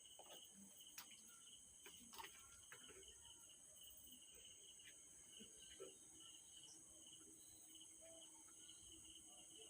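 Near silence: a faint, steady, high-pitched background whine, with a few faint light ticks.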